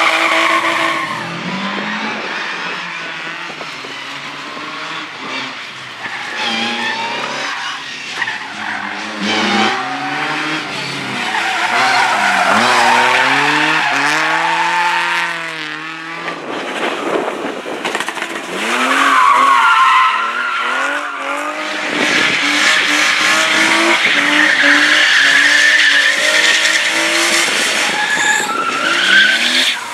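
Car driven hard through a slalom course: the engine revs up and drops back again and again through gear changes and lift-offs, with tyres squealing through the tight turns.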